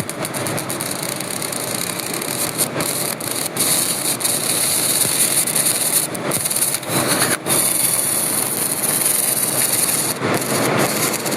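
Robotic arc welding on steel pipe: a steady, loud hiss of the welding arc with frequent crackling snaps.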